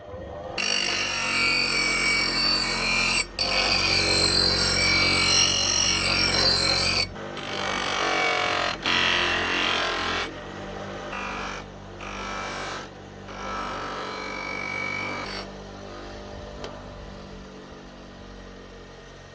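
Electric power tool running on metal, heard in a series of short clips that start and stop abruptly. The loudest stretch comes in the first seven seconds, and the later clips are quieter.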